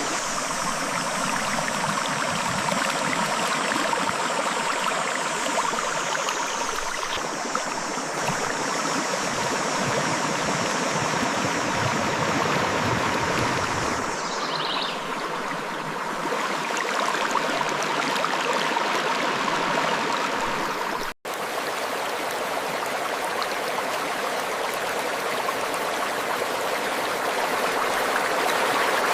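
River water flowing over rocks: a steady rushing and gurgling. The sound drops out for an instant a little past two-thirds of the way through.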